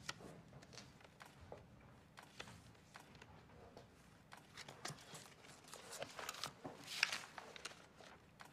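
Faint rustling and soft taps of paper as sheets and an envelope are handled at a table, with a short burst of louder rustling about seven seconds in.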